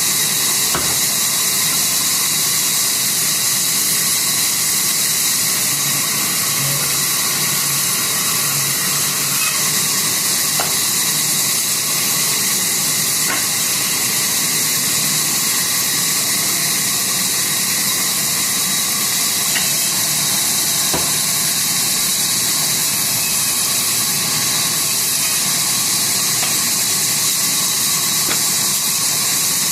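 Sawmill saw running steadily, a constant loud hiss with a low hum beneath and a few faint clicks.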